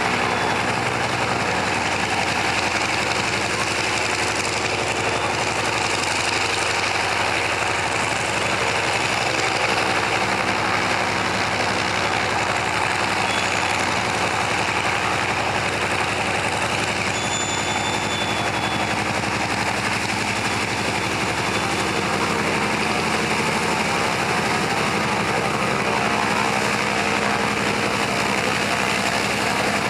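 Antonov An-2's nine-cylinder radial engine running steadily, with no change in speed.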